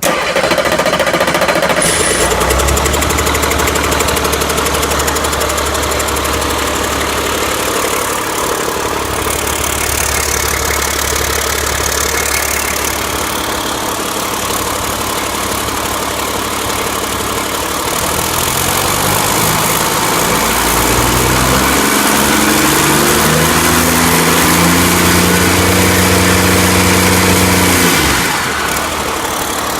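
Caterpillar C7 ACERT inline-six diesel engine running: it idles steadily, is revved up in steps from about eighteen seconds in, holds at higher speed, then drops back to idle near the end.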